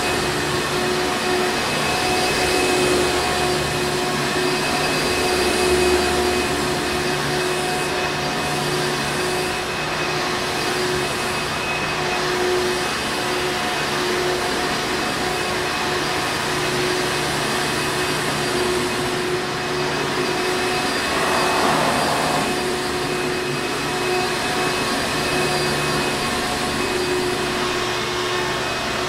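Hoover Encore Supreme vacuum cleaner running steadily, a constant motor hum and whine with a few steady tones over the rush of air.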